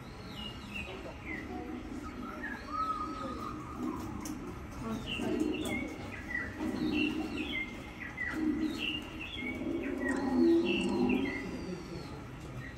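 Small birds chirping repeatedly with short, quick rising and falling notes, over a low murmur of distant people's voices that is loudest about ten seconds in.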